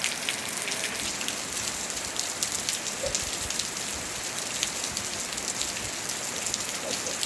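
Steady rain falling and pattering on surfaces, with many individual drops ticking.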